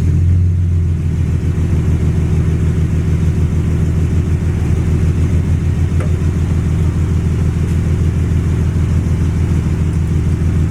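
Turbo Cummins diesel engine of a Dodge Ram 3500 running steadily at low speed while the truck is eased back under a truck camper, a little louder in the first second.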